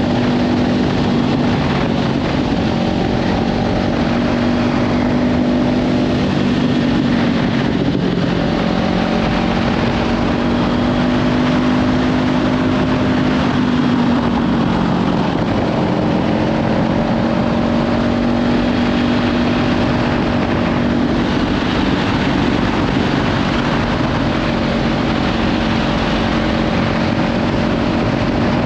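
Kawasaki Ninja 500's parallel-twin engine through a Leovince slip-on exhaust, running at steady riding revs under heavy wind noise on the microphone. The engine note dips briefly and climbs back twice, about a quarter and about halfway through.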